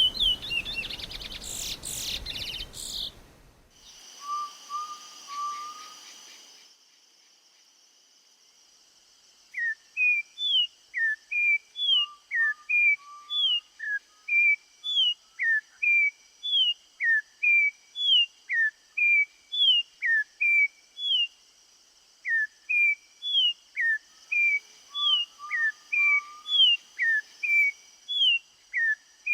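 Songs of native Brazilian songbirds, one recording after another: a fast chirping song that stops about three seconds in, a few short low notes, a brief pause, then from about ten seconds in a bird repeating short, downward-slurred whistled notes about twice a second.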